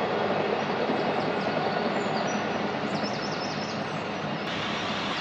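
A train running through the station: a steady rumble and roar of wheels on the track.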